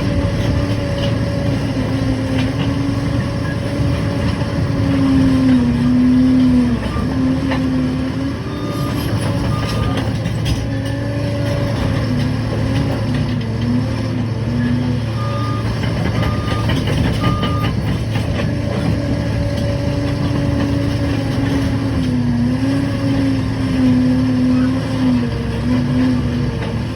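Liebherr 746 crawler dozer's diesel engine running steadily, its pitch dipping and recovering several times as it takes load. A reversing alarm beeps in short runs, about nine seconds in and again from about fifteen to eighteen seconds.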